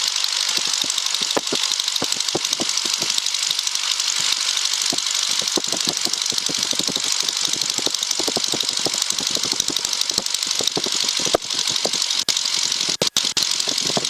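Single-engine Cessna trainer's piston engine and propeller running steadily at low taxi power, heard from inside the cockpit. The sound drops out briefly a few times near the end.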